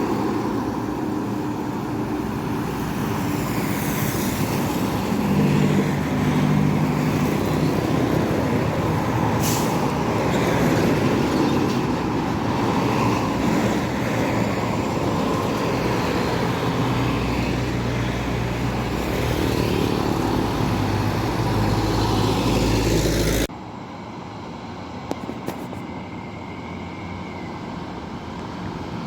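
Heavy trucks and buses passing on a road: engines running over tyre and road noise, with a brief high hiss about a third of the way in. The sound drops suddenly to quieter traffic near the end.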